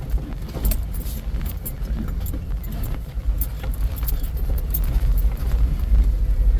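Off-road vehicle driving slowly over a rough trail: a steady low engine and drivetrain rumble, with frequent small rattles and knocks throughout.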